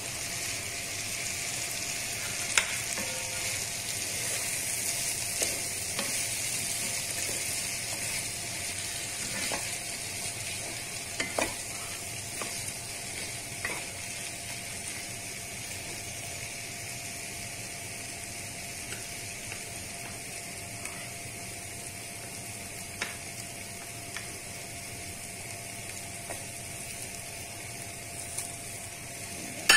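Hard-boiled egg pieces in a tomato-and-onion sauce sizzling steadily in a coated frying pan while a wooden spatula stirs them, with occasional short clicks and scrapes of the spatula against the pan.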